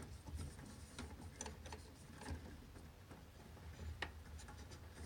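Scattered light clicks and ticks from handling the furnace's pressure-switch hose and its fittings, over a faint steady low hum.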